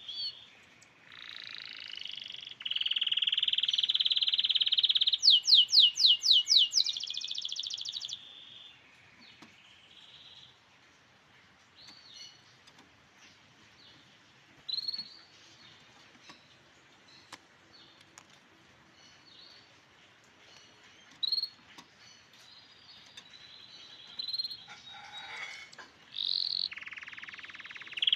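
Canary singing: long buzzy trills, a quick run of rising whistled sweeps, then scattered short chirps and another trill near the end.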